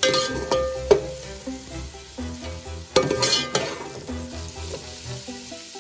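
Diced capsicum and scrambled egg sizzling in a metal pot while a slotted metal spoon stirs them, scraping and knocking against the pot a few times, loudest about three seconds in. Background music with a steady beat plays underneath.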